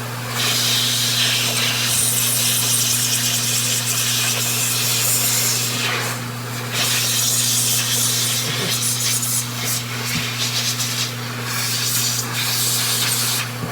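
Small dryer running, its motor humming steadily while its air stream hisses over clipper blades, blowing the cleaning solution out of them. The hiss drops briefly twice, near the start and about six seconds in.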